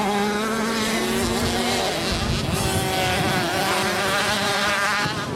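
Several small two-stroke engines of 50cc automatic motocross bikes racing, buzzing at high revs with their pitch rising and falling as they accelerate and ease off.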